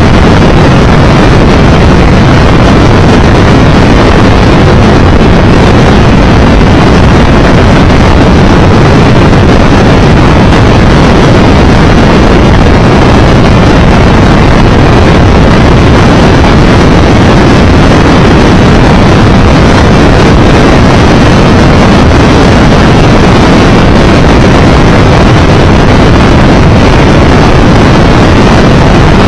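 Triumph Tiger Explorer 1200 motorcycle riding steadily at speed: loud, unbroken wind roar on the microphone over the engine and road noise.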